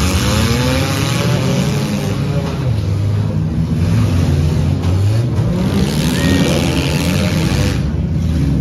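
Several four-cylinder demolition derby cars' engines revving, the pitch rising and falling again and again as they push and maneuver. The noise is loud and continuous.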